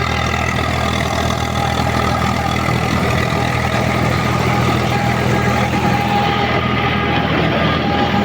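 Eicher 485 tractor's diesel engine running steadily at an even speed.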